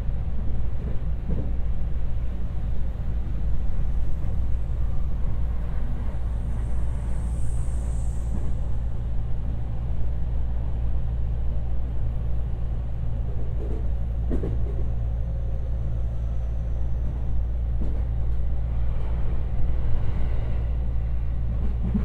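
Inside the passenger car of a JR West 225-series electric train running at speed: a steady low rumble of wheels on rail. A few short knocks come through, around the start and about two-thirds of the way in.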